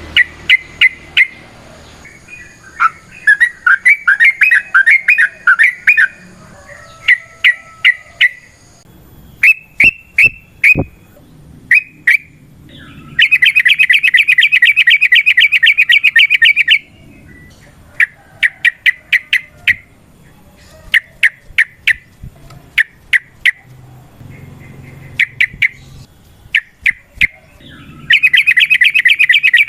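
Yellow-vented bulbul (trucukan) singing in short groups of quick chirps and long rapid rolled trills, the longest running from about 13 to 17 seconds in and another starting near the end. A few sharp clicks come between phrases about 9 to 11 seconds in.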